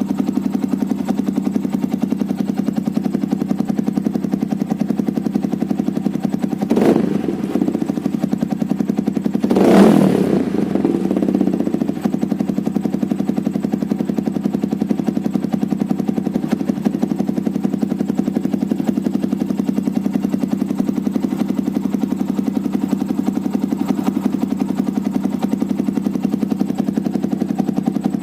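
Motorcycle engine idling steadily through an MHR aftermarket exhaust, blipped twice on the throttle: briefly about seven seconds in, then louder about ten seconds in.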